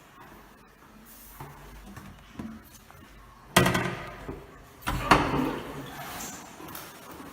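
Two sudden loud bangs about a second and a half apart, each ringing on briefly in a public restroom, followed by a fainter rushing noise.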